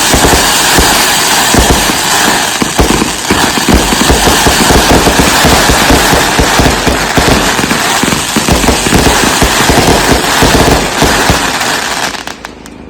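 Consumer firework cakes firing a dense, rapid barrage of overlapping bangs and crackles, cutting off about twelve seconds in.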